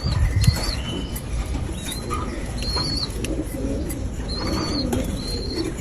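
Birds chirping: short, high, wavering chirps repeated every half second to a second, over a steady low rumble.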